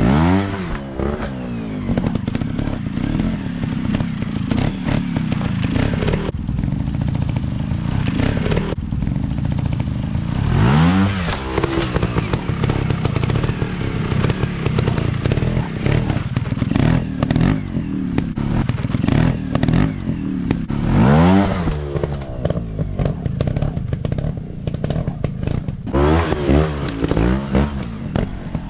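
Single-cylinder trail/dirt bike engines running off-road, revved hard several times with quick rises in pitch: near the start, about a third of the way in, about two thirds in, and a run of short throttle blips near the end. Clattering and knocking of the bikes over rough ground runs underneath.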